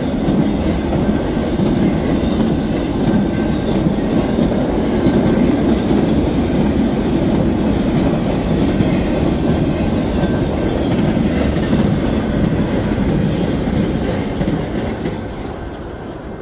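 Intermodal freight train of trailers on flatcars rolling past close by, with a steady rumble of wheels on rail that fades near the end as the train moves away.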